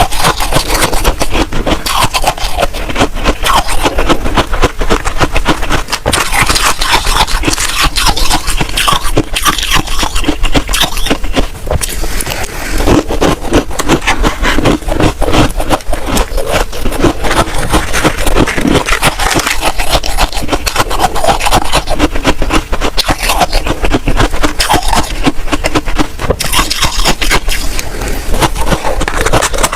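Freezer frost being scraped and crunched: a dense, continuous crackling scrape.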